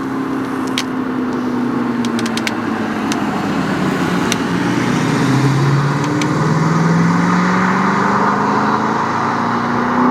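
A supercar's engine on the track, its note dropping for a few seconds as the car slows, then climbing steadily from about halfway as it accelerates hard, high in the revs.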